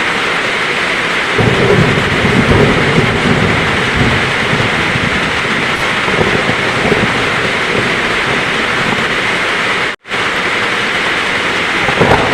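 Heavy rain falling steadily with thunder rumbling, a long low rumble starting about a second and a half in and another near the end. The sound cuts out for an instant about ten seconds in.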